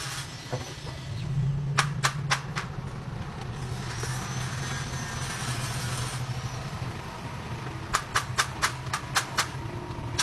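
Truck engine running steadily, with sharp clicks twice: a group of about four around two seconds in and a faster run of about seven near the end.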